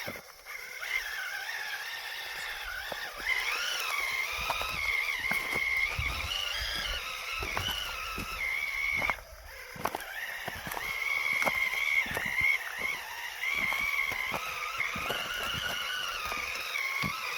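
RC rock crawler's Hobbywing brushless motor whining, its pitch rising and falling with the throttle. It cuts out briefly about halfway through, and scattered clicks and knocks come over it.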